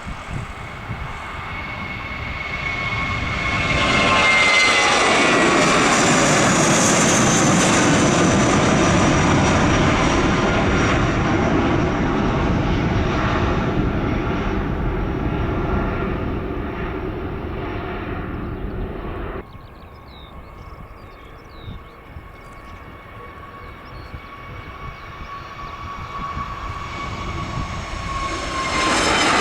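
An airliner passes close by. Its engine noise builds to a loud rush with a whine that falls in pitch as it goes past, then dies away. About two-thirds of the way through, the sound cuts abruptly to a quieter, more distant aircraft whose engine whine grows louder toward the end.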